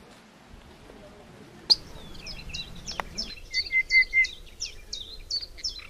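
A songbird singing a quick series of short, high chirping notes, several a second, starting a little under two seconds in after a quiet stretch of faint outdoor background.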